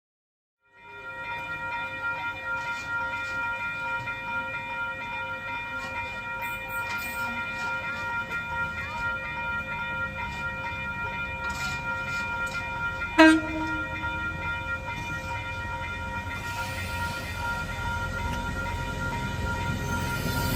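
Train running, with a constant high whine over a rumble that grows louder in the last few seconds. There is a single sharp click about two-thirds of the way through.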